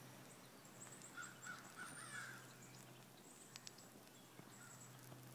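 Near silence: faint outdoor ambience with a few faint, distant bird calls, crow-like caws, between about one and two seconds in.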